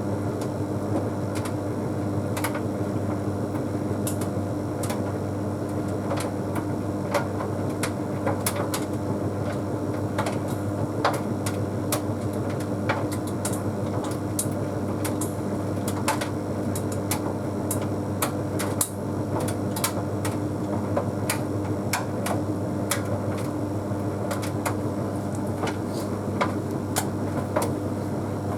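Bosch Series 6 WQG245R9GB heat pump tumble dryer running an Easy Care cycle: a steady low hum from the machine, with irregular sharp clicks and taps throughout as the half load tumbles in the drum.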